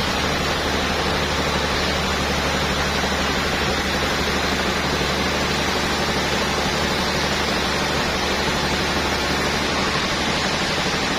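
Sawmill saw running steadily: an even, loud rushing noise with a low machine hum underneath, unchanging throughout.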